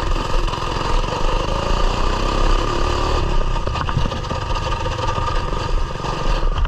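Coleman mini bike's small single-cylinder engine running under throttle as the bike rides through slippery trail mud, with a steady low rumble.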